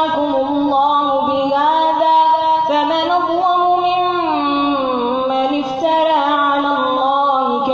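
A child's voice reciting the Quran in melodic chant, holding long notes and sliding between them, with the pitch stepping down about midway.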